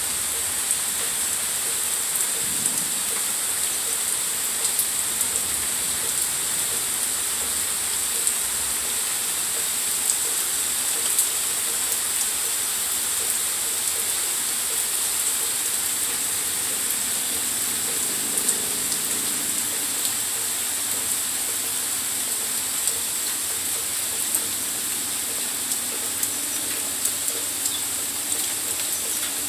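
Steady rain falling in good-sized drops on the trees and yard: an even hiss scattered with sharp ticks from individual drops landing close by.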